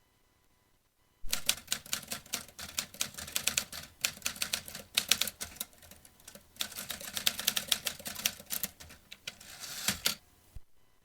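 Vintage manual typewriter being typed on: a fast run of key strikes that begins about a second in, pauses briefly midway, and stops shortly before the end.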